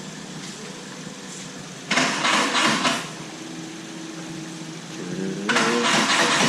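Chevette's VW AP engine being cranked on jump-start power: a short burst of cranking about two seconds in, then the engine catches near the end and runs with rising revs.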